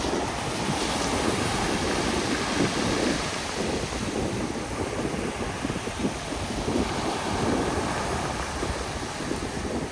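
Black Sea surf washing onto the beach, mixed with strong gusting wind buffeting the microphone, as a steady, dense rush with slow swells.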